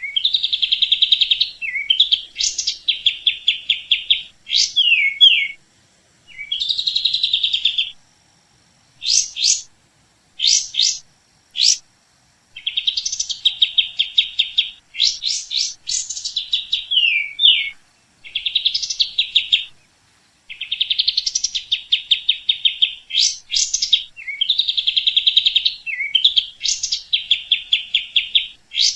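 A songbird singing in repeated phrases of rapid, fast-trilled notes, each phrase one to three seconds long, with short pauses and a few single sharp notes in between.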